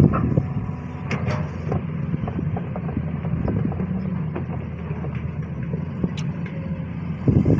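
SANY SY215C excavator's diesel engine running steadily as the machine works, with a few short clicks or knocks, around one second in and again near the end.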